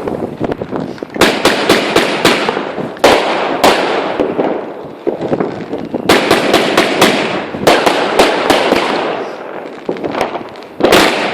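A consumer firework battery (cake) firing: loud sharp bangs in quick clusters every second or two, with crackling in between.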